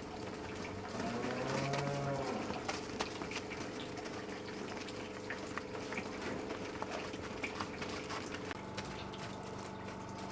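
A cow moos once, a rising and falling call about a second in, over a steady low hum with scattered clicks and knocks.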